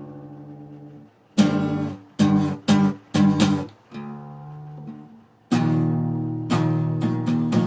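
Acoustic guitar strumming chords in a song with no singing. A fading chord opens, then a few sharp, separate strums with short stops between them, and steady strumming takes over about five and a half seconds in.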